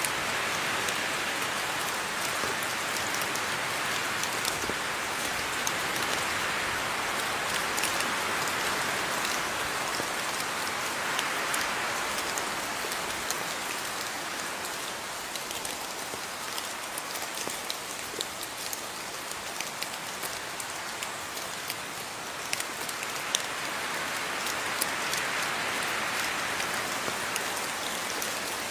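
Steady rain falling, a dense hiss with many small drop ticks, swelling and easing slightly in intensity.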